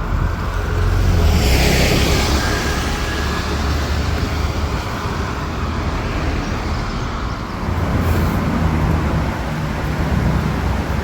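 Double-decker bus in motion, heard from the top deck: a steady low engine drone and road noise, with a brief hissing rush about two seconds in.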